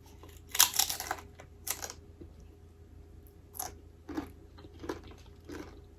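A person biting into a crispy deep-fried chicken skin loaded with chicken salad: two loud crunches in the first two seconds, then quieter chewing with soft, scattered crunches.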